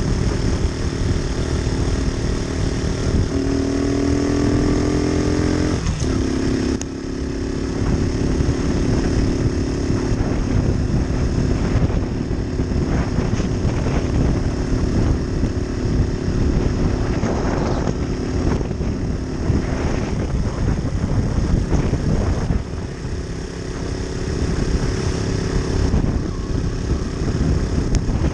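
Moped engine running while riding, over a steady rushing noise. Its pitch climbs a few seconds in and drops sharply about six seconds in, as the throttle is eased off, then holds steady.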